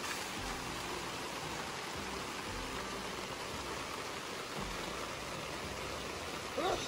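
Steady rain falling, an even hiss. Near the end comes a brief louder sound with a wavering pitch.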